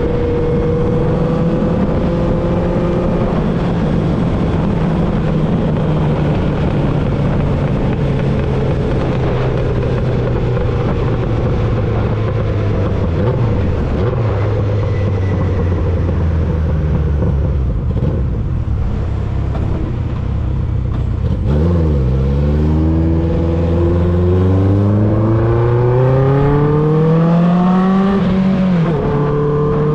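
1995 Honda CB750 Nighthawk's air-cooled inline-four engine running through a Vance & Hines 4-into-1 exhaust while riding. The engine note holds steady, then slowly falls for about twenty seconds as the bike slows; after a brief dip it climbs steadily under acceleration and drops sharply on a gear change near the end.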